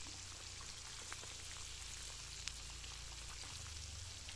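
Fish and fish roe frying in hot oil in an aluminium wok: a steady sizzle with scattered small pops and crackles, over a low steady rumble.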